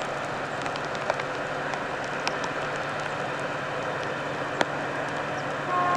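Distant passenger train running on the line, a steady rushing noise with a few sharp ticks. Right at the end comes a short two-tone horn.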